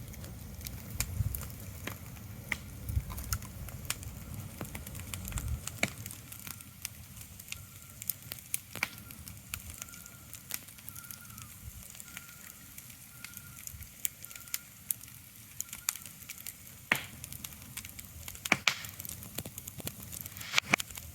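Scattered crackles and pops over a faint steady hiss, with a low rumble in the first few seconds and a faint, broken high tone through the middle.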